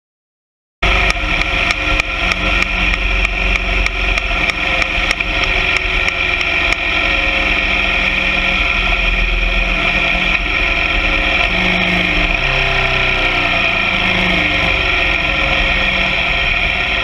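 Motorcycle sidecar rig's engine running on the move, starting suddenly about a second in, with irregular knocks for the first few seconds before it settles into a steady sound.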